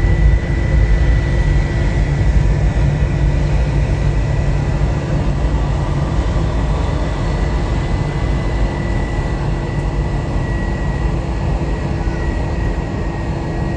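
Jet airliner engines running: a steady low rumble with a steady high whine, slowly fading.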